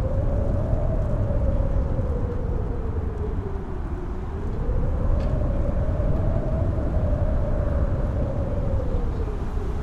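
Strong mountain-top wind howling, its pitch rising and falling slowly in two long swells over a deep, steady rumble.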